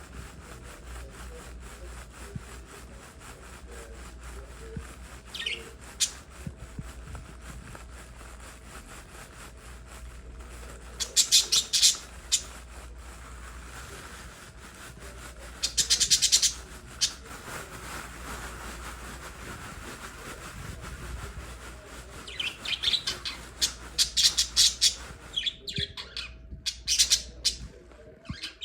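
Pet lovebirds chirping in several short, loud bursts of high-pitched calls, with quieter stretches between, over a steady low hum.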